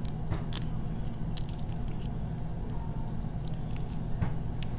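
Close-miked eating: wet chewing and mouth sounds with a few scattered sharp clicks and crunches, over a steady low hum.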